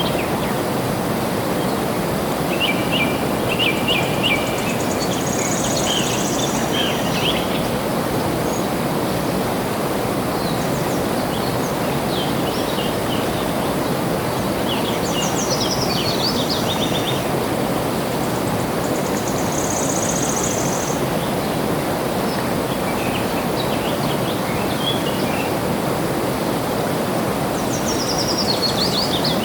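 Steady rush of flowing water with songbirds chirping over it. Short bursts of high chirps and trills come every few seconds, some running down in pitch.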